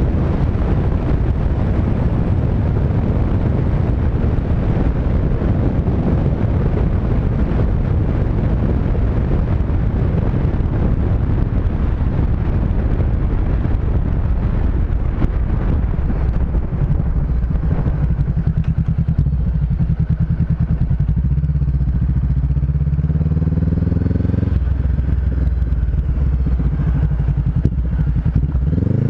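Honda CB500X's parallel-twin engine under way, at first buried in heavy wind rush on the microphone. About two-thirds of the way in, the wind noise drops and the engine note comes through plainly, rising and falling in pitch as the throttle opens and closes and the gears change.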